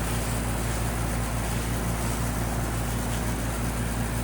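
Old Whirlpool heat pump outdoor unit running in heating mode: a steady low hum under the even rush of its fan.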